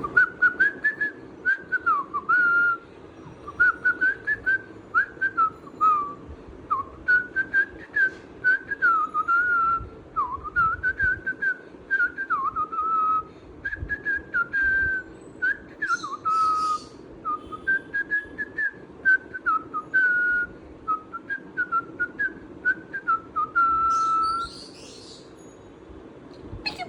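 Pet parrot whistling a long run of short warbled notes that slide quickly up and down in pitch, with soft clicks between them and a couple of brief high rasps; the whistling stops a little before the end.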